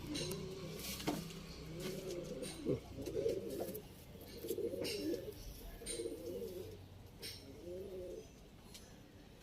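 Domestic pigeons cooing, a string of about six or seven warbling coos that grow fainter near the end, with a few sharp clicks among them.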